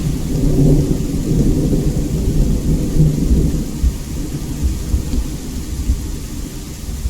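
Thunder rumbling over steady rain. The low rumble is heaviest in the first half and eases toward the end.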